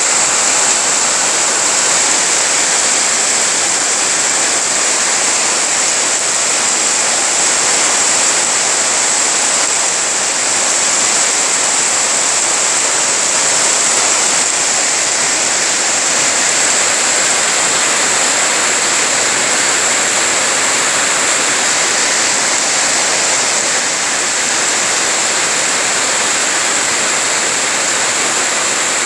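Heavy rain falling, a loud, steady hiss with no single drops standing out.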